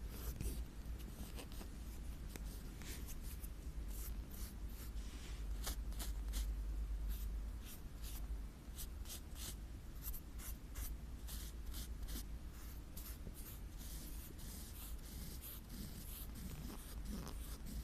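Close-miked ASMR scratching on an item's surface: quick, irregular scratching strokes with a steady low hum underneath.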